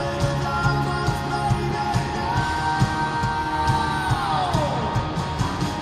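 Live rock band playing at full volume over a steady drum beat, with a long held sung note that steps up about two seconds in and slides down near the end; crowd voices mix in.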